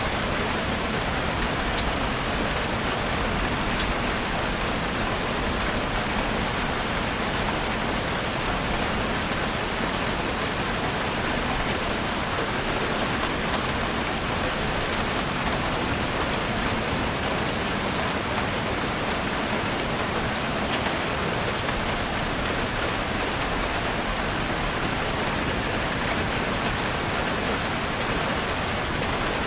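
Heavy rain falling steadily on a roof, a dense even patter with fine individual drop ticks.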